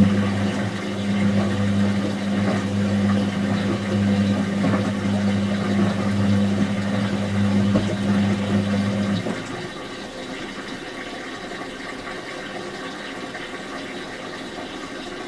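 Whirlpool H-Axis top-loading washing machine filling: the water inlet valve hums steadily over the rush of incoming water, then shuts off suddenly about nine seconds in, leaving a fainter sound of water.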